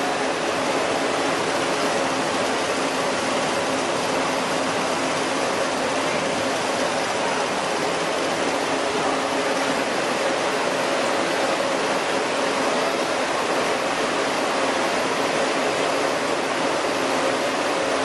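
Chili powder milling machinery running steadily: a constant rushing noise with a faint steady hum under it.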